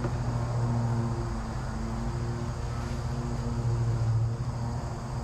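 A steady low mechanical hum with a few overtones, from a motor or machine running, under a general shop background noise.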